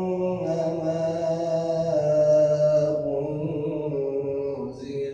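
A man reciting the Quran in the melodic mujawwad style, drawing out the word "annamā" as one long held line that moves slowly through several notes.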